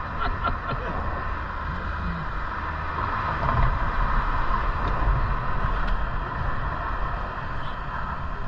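Steady outdoor noise while riding a bicycle: wind rumbling on the microphone over a constant rushing hiss.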